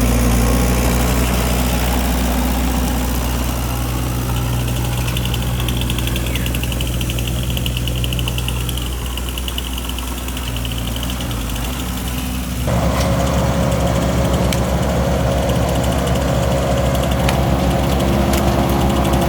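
Engine of heavy machinery running steadily at idle, a low hum. About two-thirds of the way through, the sound changes abruptly to a different steady engine note.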